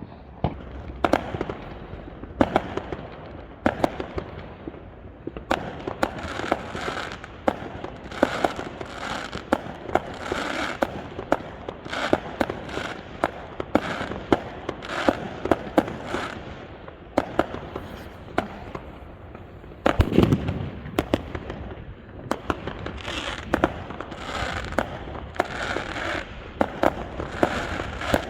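Fireworks going off in quick succession: repeated sharp bangs with bursts of crackling between them, and a louder, deeper boom about twenty seconds in.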